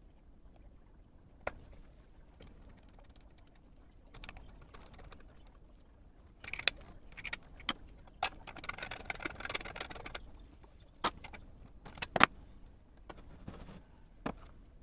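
Scattered clicks and metallic clinks of hand tools and small engine parts being handled, with about two seconds of rapid rattling just past the middle and a few sharp knocks after it.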